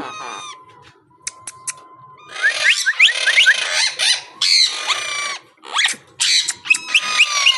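Monk parakeet chattering and squawking in harsh bursts from about two seconds in, after a few sharp clicks; a thin steady whistle-like tone runs through the quieter gaps.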